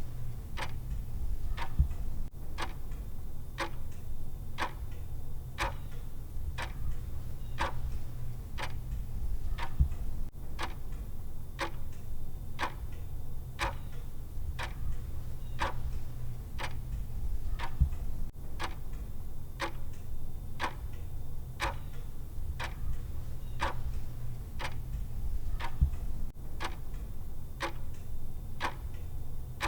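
Clock-style timer ticking evenly about once a second over a steady low hum, with a low thump about every eight seconds.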